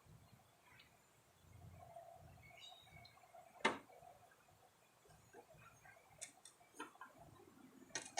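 Quiet work sounds: a few scattered clicks and light metallic taps from tools and parts being handled while mower deck spindles are fitted, with one sharper click about three and a half seconds in.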